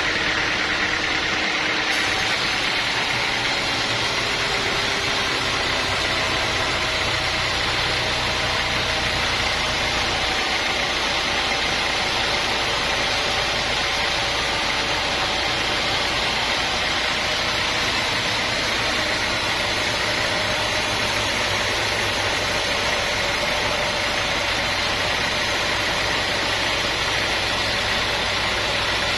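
An engine running steadily at an even speed, with an unchanging hum.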